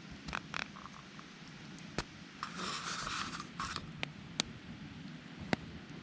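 Campfire crackling, with a few sharp single pops and a rustling scrape lasting about a second, starting about two and a half seconds in.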